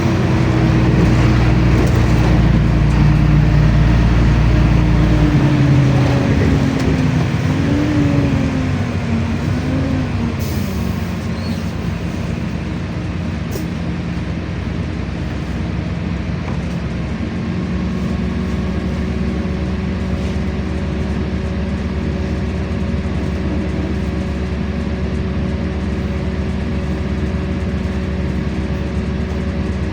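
LiAZ-5292 city bus heard from inside as it slows: a whine falls in pitch and the running noise drops over the first ten seconds or so. A brief hiss follows about ten seconds in, then the bus stands with its engine idling in a steady hum.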